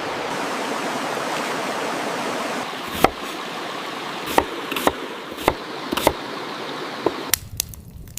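A steady rush like running water, with a handful of sharp slaps and knocks from about three seconds in as bread dough is worked by hand. The rushing drops away near the end.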